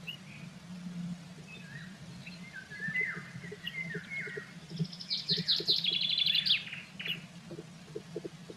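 A small songbird singing: a short series of falling notes, then a fast, high trill about five seconds in.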